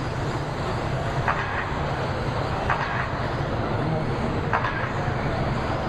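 Radio-controlled race trucks running around an off-road track: a steady whir of motors and tyres, with brief snatches of voices over it.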